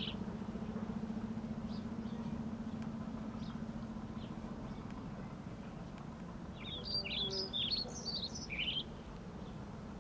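Birds singing: a quick run of chirps and short whistled notes about two-thirds of the way through, with a few faint chirps earlier. Under it, a low steady hum fades out by about halfway.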